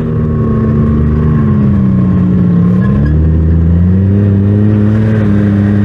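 Side-by-side UTV engine running under load, close up. Its pitch sags about two seconds in and climbs back within a second or so as the throttle is eased and reapplied.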